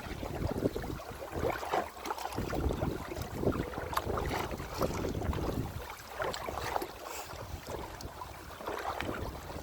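Water splashing and sloshing around a kayak as it is paddled through waves, in irregular splashes, with wind rumbling on the microphone.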